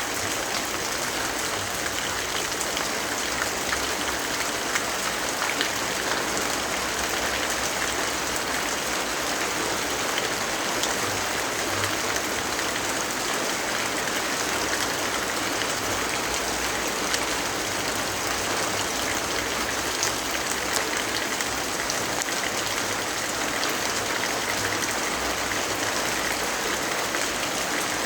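Steady rainfall: an even hiss of rain with scattered small ticks of drops.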